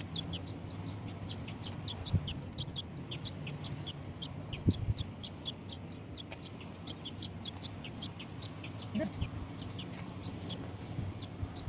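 Birds chirping outdoors: many short high chirps, several a second, with a few dull thumps.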